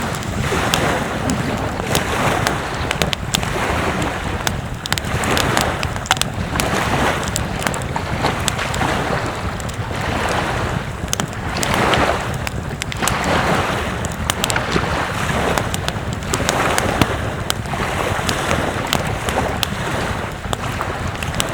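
Wind and ocean surf, a continuous rushing that swells and eases every second or two, with wind buffeting the microphone and many short sharp ticks scattered through it.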